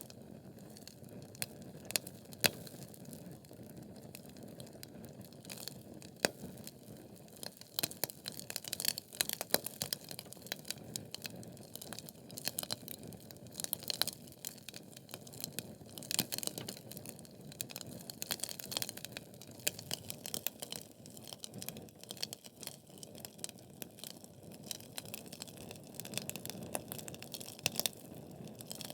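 Wood fire of burning logs crackling: a low steady rush of flame with dense, irregular snaps and pops from the burning wood, a few sharper pops standing out.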